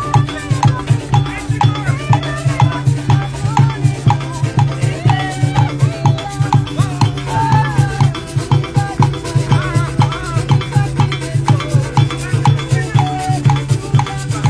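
Lively band music: shakers and drums keep a fast, steady beat, with a wavering melody line over it.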